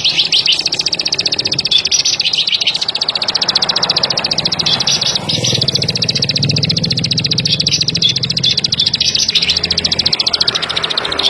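Plain prinia (ciblek padi) singing a high, fast trill of rapidly repeated notes that runs almost without a break, thinning briefly about halfway through. A low steady hum sits under the second half.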